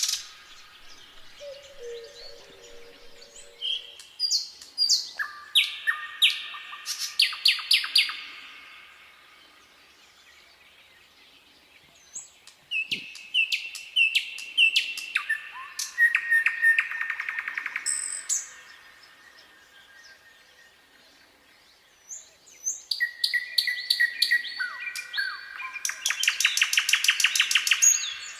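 Nightingale singing: three song phrases separated by pauses of a few seconds, each built from whistled notes and rapid trills of repeated notes. The first phrase opens with a few low, slurred whistles, and the last ends in a long, fast rattling trill.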